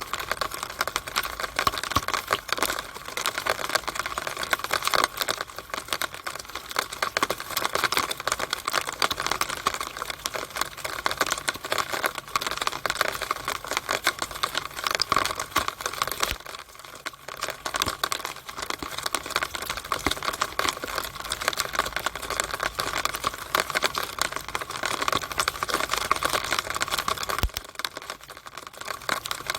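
Rainwater running down a downspout (rain gutter drainpipe), a dense irregular patter of drops and splashing trickle inside the pipe. It lightens briefly twice, once about halfway through and once near the end.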